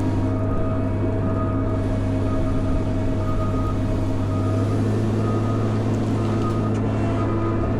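Caterpillar 140M motor grader's diesel engine running steadily under work, with a reversing alarm beeping about once a second.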